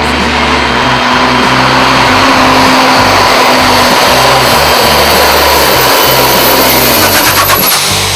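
Diesel truck engine running flat out under heavy load on a sled pull, a dense, loud roar. A high turbo whine falls in pitch near the end.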